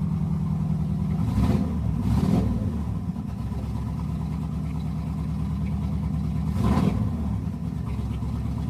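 Chevrolet small-block 350 V8 idling steadily after a cold start, with three brief throttle blips: two close together about a second and a half and two seconds in, and one near seven seconds.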